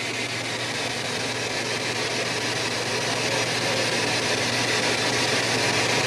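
Spirit box radio scanner putting out a steady hiss of radio static with a low hum underneath, slowly growing a little louder.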